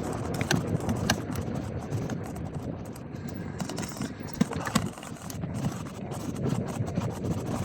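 Wind buffeting the microphone over the rumble of a gravel bike's tyres rolling along, with a few sharp clicks and knocks from the bike going over bumps.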